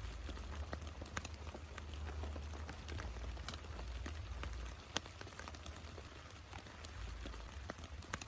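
Rain falling, with many separate drops landing close by as sharp ticks, one louder tick about five seconds in, over a steady low rumble.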